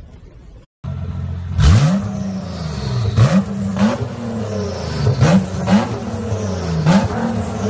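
Nissan GT-R's twin-turbo V6 revved while stationary, blipped up and dropping back about six times, with a sharp crack at most of the blips. It starts just under a second in, after a short drop-out.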